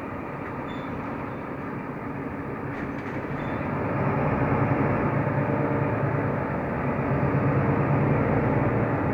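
Mercedes-Benz O345 Conecto LF city bus under way, its engine and road noise heard from inside the cabin. The engine note grows louder about four seconds in as the bus pulls harder.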